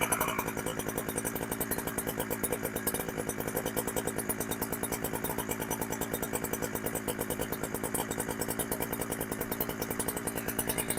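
Two-stroke chainsaw, a Chinese clone of the Husqvarna 372XP fitted with a genuine carburettor, idling steadily with an even, rapid firing rhythm.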